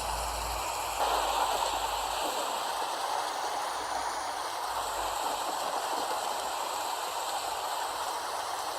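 Steady rain falling, an even hiss of drops with no pauses, a little louder from about a second in.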